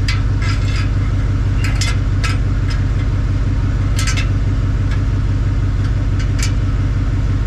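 Car engine idling steadily with a deep exhaust rumble, its exhaust pipe freshly joined with a pipe connector. A few short, sharp clicks sound over it.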